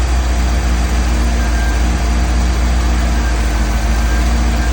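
A 1984 project car's engine idling steadily with a deep, even rumble.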